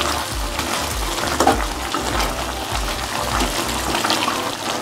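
Chicken pieces sizzling and bubbling in a wet masala in an aluminium kadai as a spatula stirs them, with repeated short scrapes of the spatula against the pan.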